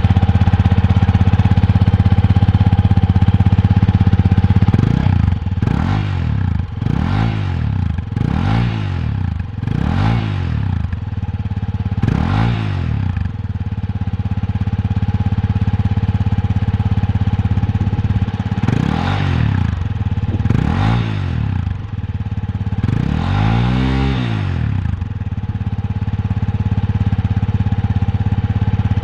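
Yamaha Serow 250's air-cooled single-cylinder four-stroke engine running through a newly fitted BEAMS Power Trek aftermarket muffler, idling and revved in short throttle blips. A quick run of about seven blips starts around five seconds in, then three more spaced out near the end, the last one the longest.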